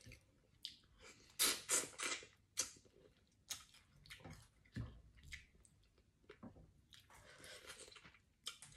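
Close-up eating sounds: a person chewing and sucking on pieces of chicken, with wet, irregular crackles and a few sharp light clicks.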